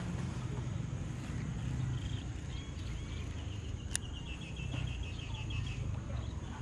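A bird calling in a quick run of short repeated chirps, about five a second, over a low steady outdoor rumble. A single sharp click comes about four seconds in.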